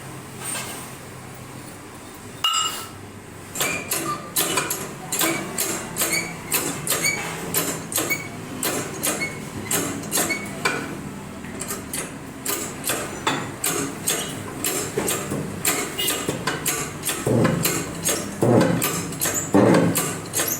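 Hammer blows on metal, a single strike and then a long run of repeated blows at roughly two to three a second, each with a short ring, during removal and fitting of a car's rear wheel bearing. The blows grow heavier near the end.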